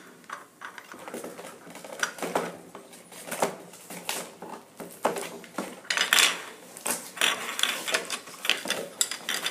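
Small plastic toy pieces and packaging being handled and pulled free: irregular plastic clicks, clatters and scrapes.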